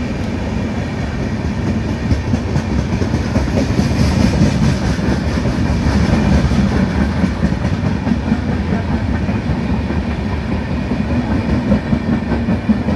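Passenger train coaches rushing past close by at speed: a steady rumble and rush of wheels on rails, with repeated clacks of the wheels over rail joints.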